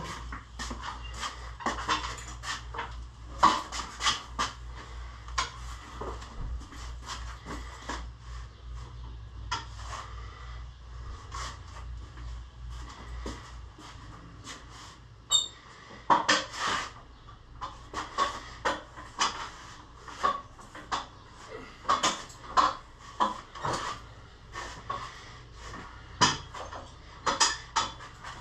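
Irregular metal clanks, knocks and rattles from handling heavy machinery-moving equipment, with a low hum under the first half that fades out about halfway through.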